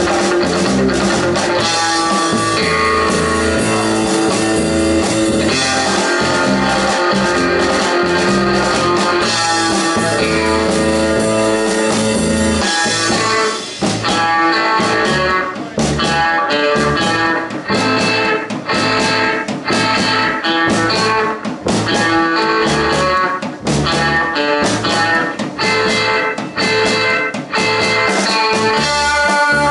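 Live rock-and-roll band playing a fast guitar instrumental: electric lead guitar over bass and drums. From about 14 seconds in the playing turns choppy, with short stops between phrases.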